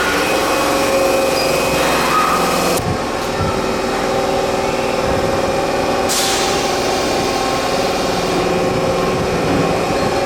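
Subway train at the platform, its electrical equipment humming steadily with several held tones, and a short burst of hissing about six seconds in.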